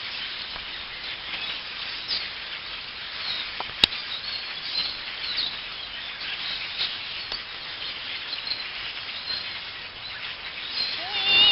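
Many birds chirping and calling at once, a dense mass of short high chirps from a large gathering of birds, with one sharp click about four seconds in.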